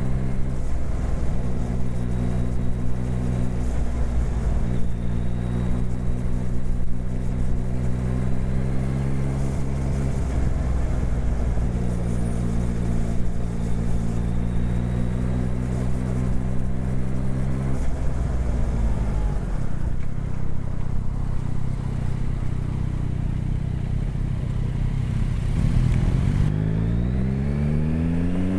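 Motorcycle engine heard while riding, holding a steady pitch with three short breaks, then easing off to a lower note. Near the end it revs up in a rising sweep, over a steady low rumble.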